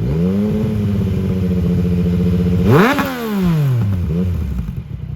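Car engine revved up and held at steady high revs for about two seconds, then given one sharper blip and let fall back down toward idle.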